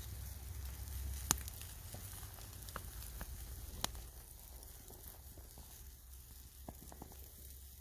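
Wood campfire crackling under a grill of pork chops, with scattered sharp pops, two louder ones about a second and four seconds in, over a faint steady sizzle.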